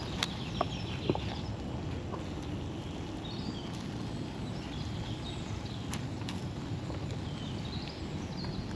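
Outdoor forest ambience: a steady low rumble with birds chirping intermittently, and a few sharp clicks in the first second or so.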